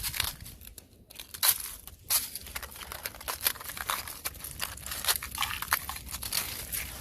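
Thin fresh ice crunching and cracking: a dense, irregular run of sharp crackles and snaps, the loudest snap about a second and a half in.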